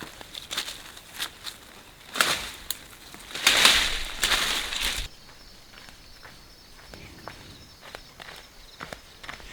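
Footsteps and rustling outdoors, with scattered short knocks and a louder crunching rustle in the middle that cuts off suddenly, followed by quieter faint ticks.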